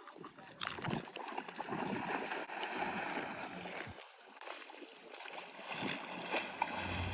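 Seawater splashing and sloshing irregularly as a person goes into the cold sea.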